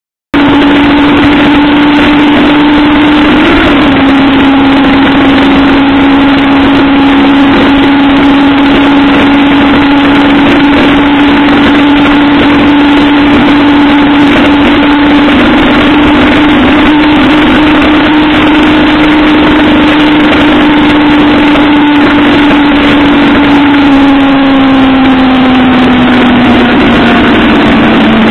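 Motorcycle engine running at a steady cruising speed under heavy wind rush over the microphone; the engine note drops slightly about three seconds in and falls steadily near the end as the rider eases off the throttle.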